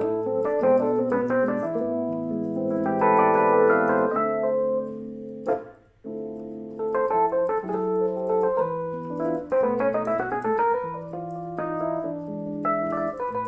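Casio CT-S1 portable keyboard being played, chords under a melody line. The playing breaks off briefly about five and a half seconds in, then picks up again.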